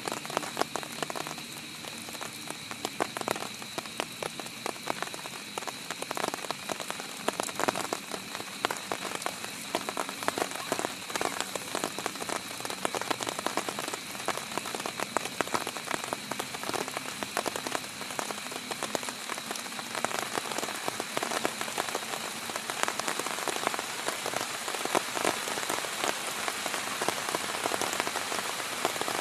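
Heavy rain falling on a tent: a dense, steady patter of close drop hits.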